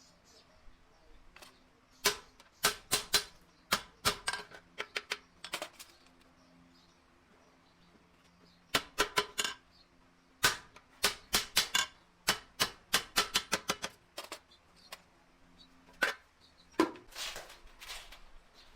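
Hand hammer striking sheet metal in quick runs of sharp, ringing blows, about three to five a second, with short pauses between the runs.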